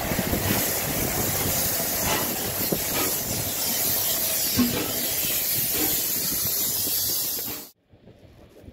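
Pt47 steam locomotive venting steam: a loud, steady hiss that cuts off suddenly near the end.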